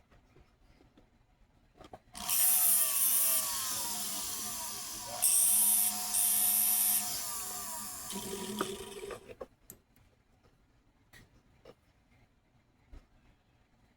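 A small power tool, such as a jeweler's rotary tool, runs for about seven seconds and then stops. Its motor pitch slides up and down, and there are two louder stretches of high, hissing grinding.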